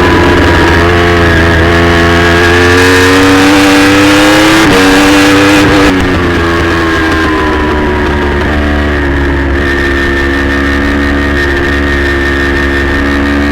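Racing motorcycle engine running hard at high revs, its pitch climbing steadily and then dropping sharply on a gear change a little under five seconds in, before climbing again.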